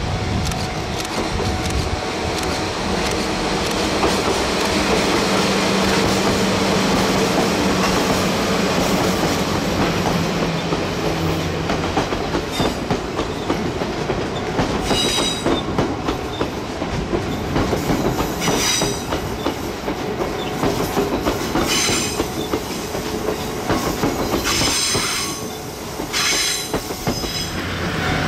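Diesel train running slowly along the rails, with a steady engine hum and clacking wheels. From about halfway in come five short, high-pitched wheel squeals.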